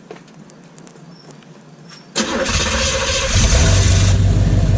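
A 1983 Pontiac Firebird with a straight-pipe exhaust starts about two seconds in. The starter cranks, the engine catches about a second later, and it settles into a loud, steady idle.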